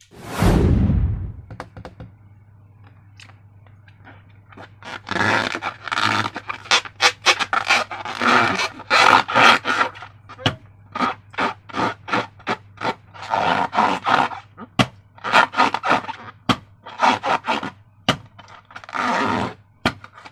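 Slime being squeezed and worked by hand, giving a long run of irregular wet squelches and sticky clicks. It opens with one loud sudden burst that dies away over about a second.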